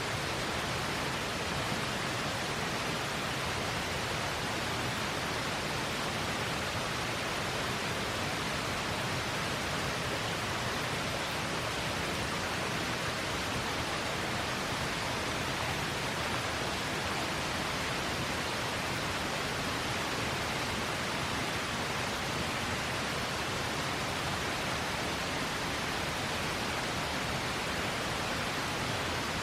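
A river running, a steady even rush of water.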